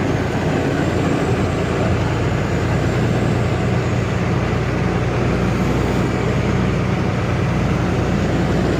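Truck's diesel engine running steadily while driving, with road noise.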